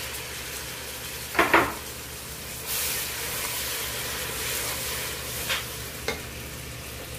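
Oil and spices sizzling in a pot as grated tomato is added and stirred in with a wooden spoon. There is one sharp knock about one and a half seconds in, and the sizzle grows louder about three seconds in.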